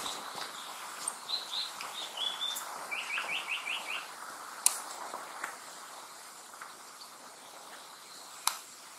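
Japanese paradise flycatcher singing: a few short high whistled notes, then a quick run of about six lower notes between three and four seconds in. Two sharp clicks follow, one near the middle and one near the end, over a steady background hiss.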